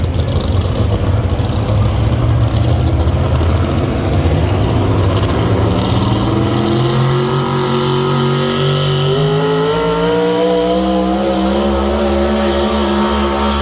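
A high-horsepower pulling vehicle's engine running loud and rough. From about six seconds in, its pitch climbs steadily for a few seconds and then holds high.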